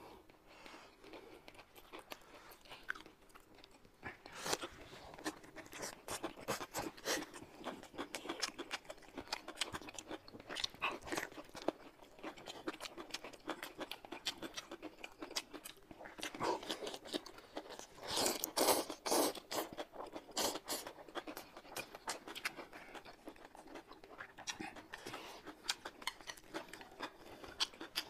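Close-up mouth sounds of two people chewing pancake wraps filled with shredded meat and crisp green vegetable strips: wet chewing with irregular crunches, loudest in a run of crisp bites a little past the middle.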